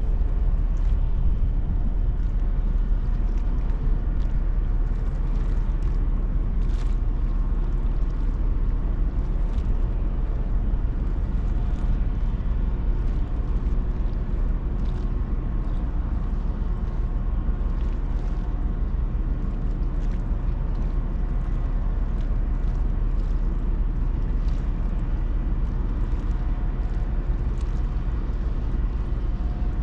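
Steady low rumble of a large Ro-Ro passenger ferry's machinery under way, with faint steady hums above it and occasional soft hissing swishes.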